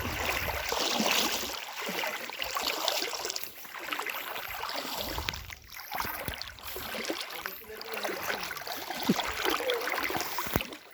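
Floodwater flowing and splashing in a continuous noisy rush, with low rumbles near the start and again about halfway.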